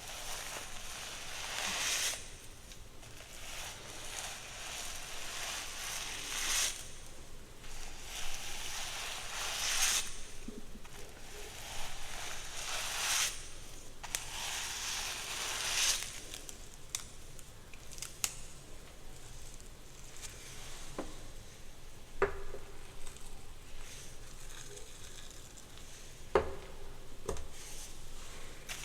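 Hair being worked close to the microphone: long hissing strokes through the hair, about one every three seconds, then quieter handling with a few sharp clicks in the second half.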